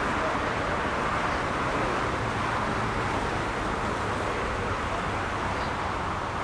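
Jet engine noise of a landing Boeing 747-400: a steady rush that eases slightly near the end.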